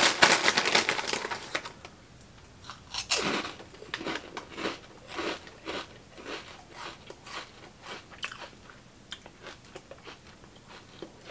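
Someone biting into and chewing Flamin' Hot Funyuns, crisp fried onion-ring snacks. A burst of loud crunching at the first bite, another hard crunch a few seconds in, then steady chewing crunches about two a second that fade away.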